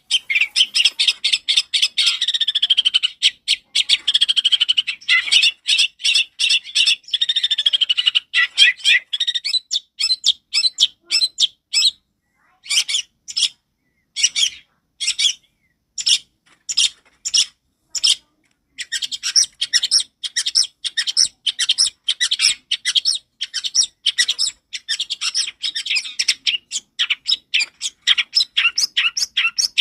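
Long-tailed shrike (cendet) singing loud and clear: a fast stream of harsh, high chattering notes, which breaks into separate notes about two a second for several seconds midway before the rapid chatter resumes.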